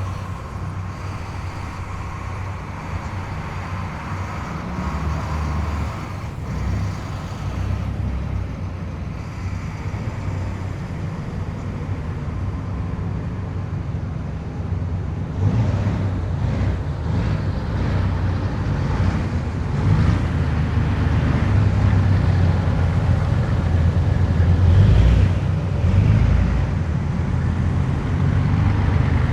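Heavy military vehicles driving past in a column, their diesel engines running steadily, growing louder about halfway through as the next vehicles come closer.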